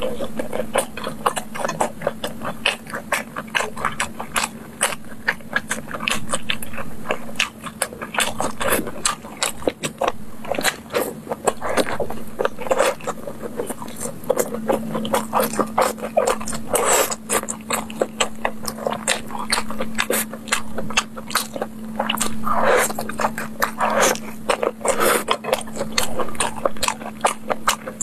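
Close-miked eating of sticky sauce-glazed meat skewers: biting and chewing with wet mouth smacks, a dense run of quick clicks throughout.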